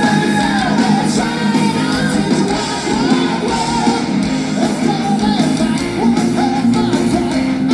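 Live metal band playing loud, with distorted guitars and drums and a wavering melodic lead line on top.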